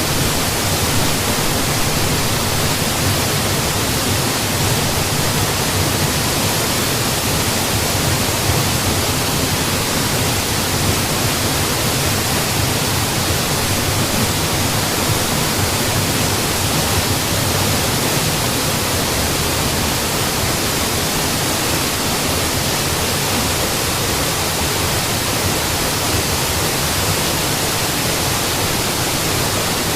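Waterfall, water falling and splashing in a loud, steady, unbroken rush.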